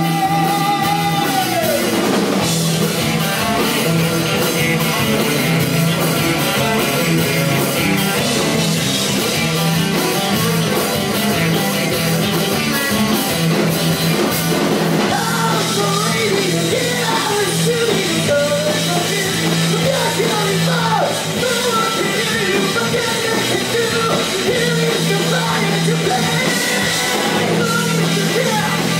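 Live rock band playing a song at full volume: drum kit, electric guitar and bass, with a sung line in places.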